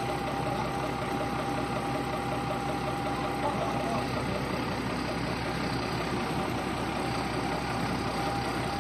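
Tractor engine running steadily at an even speed, with a faint steady whine over it.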